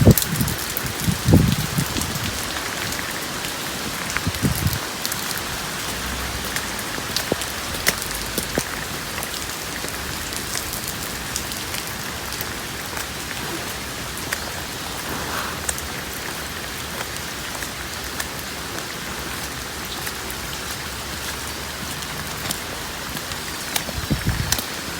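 Steady rain falling, an even hiss dotted with sharp ticks of individual drops. A few low rumbles break in during the first few seconds and again near the end.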